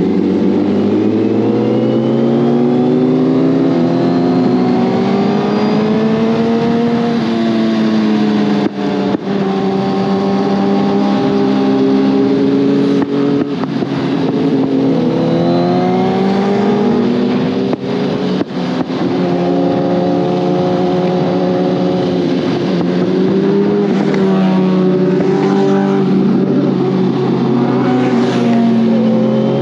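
Suzuki GSX-R1000R's inline-four engine accelerating hard, its pitch rising through each gear and dropping briefly at several quick upshifts, over a steady rush of wind.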